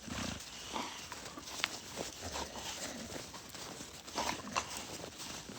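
Footsteps crunching irregularly in snow, a light scuffing of feet or paws.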